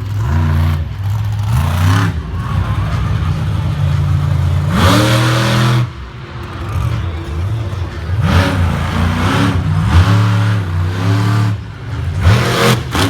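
Monster truck engine revving hard in repeated bursts, its pitch climbing and dropping every second or two, with one long loud rev about five seconds in.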